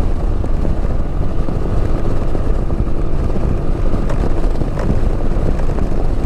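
Keeway Superlight 125 motorcycle riding at steady road speed, its engine holding a steady hum under a dense rush of wind and road noise.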